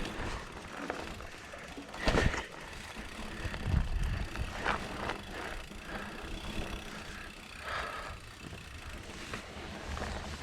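Mountain bike rolling over rough, rocky ground, with tyre noise and rattling and a sharp knock about two seconds in.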